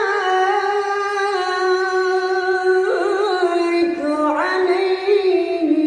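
A solo voice singing a drawn-out, ornamented final phrase of an Arabic devotional sholawat: long held notes with vibrato, stepping to new pitches about three and four seconds in, with no accompaniment.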